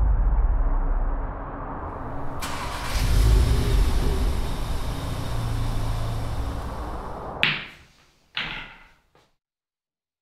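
A car engine running with a low rumble, a hiss joining about two and a half seconds in. The sound cuts off abruptly about seven and a half seconds in, followed by two short knocks.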